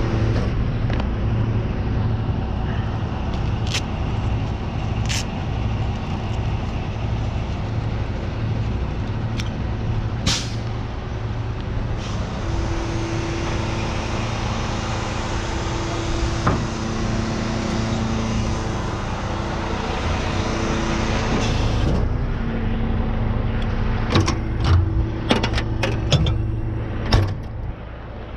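Tow truck engine running steadily with a low hum. Several sharp clicks and knocks come near the end.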